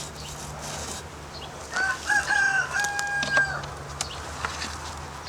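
A rooster crowing once, about two seconds in: a broken call ending on a longer held note. Under it runs a steady low hum, with a few light clicks.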